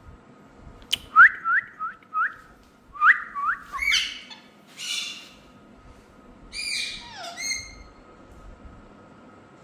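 Indian ringneck parrots calling: a quick series of short rising chirps, then a couple of harsher squawks and a call that falls in pitch, after a single click about a second in.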